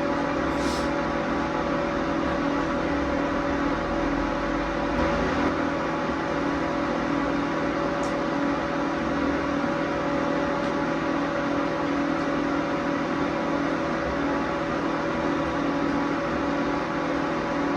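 A steady machine hum with a constant tone over an even hiss, like a running appliance or motor.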